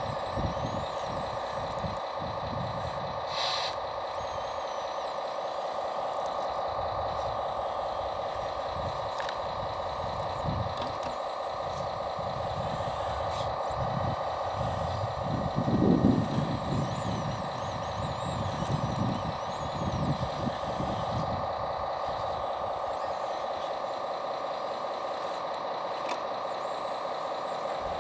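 Radio-controlled scale logging machinery working: a steady electric whine throughout, with irregular lower surges from the model's motors and gearing, the loudest about sixteen seconds in.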